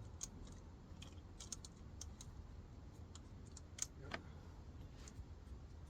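Light, irregular clicks and taps of hand tools and metal parts being handled, with a brief scrape about four seconds in, over a low steady hum.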